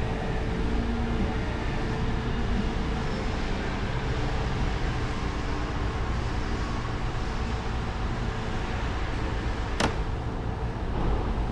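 Car driving: steady, quiet engine and road rumble heard from inside the cabin, with a single sharp click near the end.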